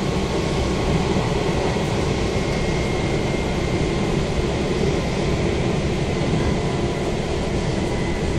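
Steady running noise of an Izukyu 2100 series electric train, heard from inside the passenger car: a dense, even rumble of wheels on rails and the running gear, with a faint steady high whine over it.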